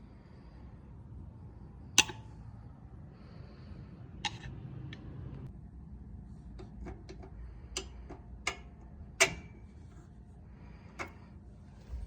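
Scattered sharp clicks and knocks, about half a dozen, over a low steady rumble. The loudest come about two seconds in and about nine seconds in. They sound like small hard objects being handled during hand work.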